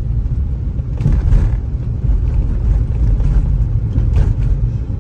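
Low, steady rumble of road and engine noise from a moving vehicle, with brief louder swells about a second in and again around four seconds.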